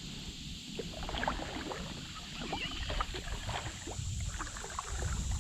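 Small irregular splashes and knocks of water and gear around a kayak, over a low rumble, busiest in the middle.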